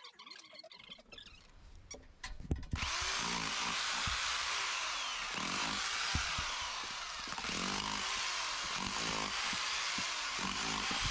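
A few knocks, then, about three seconds in, a rotary hammer drill starts up and runs steadily, boring into a thick stone wall.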